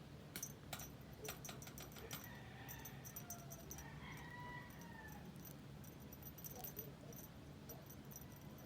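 Faint chickens calling in the distance: a few drawn-out calls that rise and fall, over a low steady hum and scattered light clicks.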